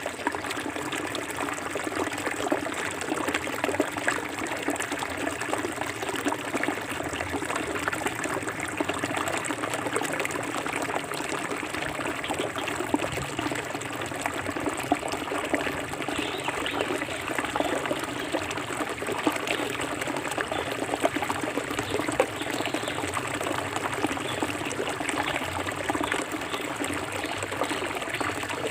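Forest river flowing: a steady wash of trickling, splashing water.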